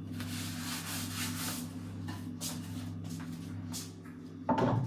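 Rubbing on an oiled wooden cutting board: a rough swishing for the first second and a half, then a few light knocks and a louder clunk near the end, over a steady low hum.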